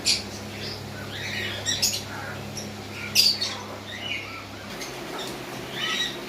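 Birds in a pigeon setup giving short, high chirps and squawks at irregular intervals, the loudest near the start and about three seconds in. A steady low hum runs underneath and stops a little under five seconds in.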